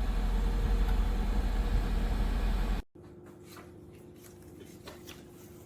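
Car engine idling with a steady low rumble that cuts off abruptly about three seconds in, leaving a faint steady hum with a few light clicks.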